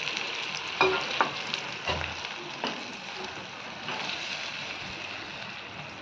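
Blended carrot paste sizzling in hot ghee in a wok, stirred with a slotted spatula that knocks and scrapes against the pan several times, mostly in the first few seconds.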